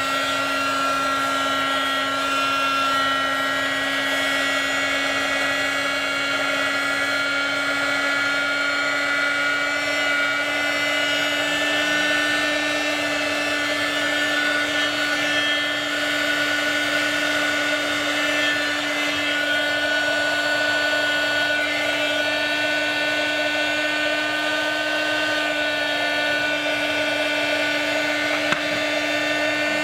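A small electric motor tool running at a constant speed, a steady pitched hum with a whine above it and no breaks.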